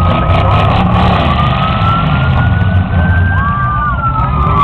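Demolition derby cars' engines running with a steady low rumble. Over them a thin high whine rises slowly for a few seconds, then falls away near the end.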